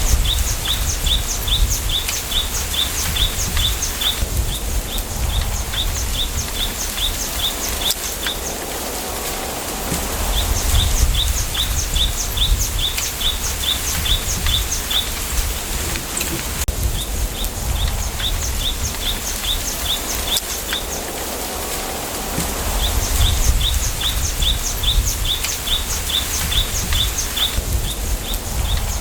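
Bamboo forest ambience: bouts of short, high chirps repeated about four times a second, a few seconds on and a few off, over a constant rustling hiss and a gusting low rumble of wind.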